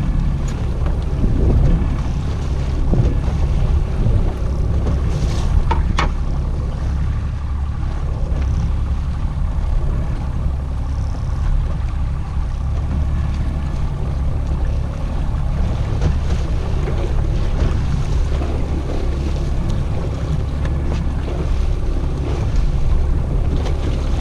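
A boat's engine running steadily at low trolling speed, a constant low rumble, with wind on the microphone and water noise. There is one sharp click about six seconds in.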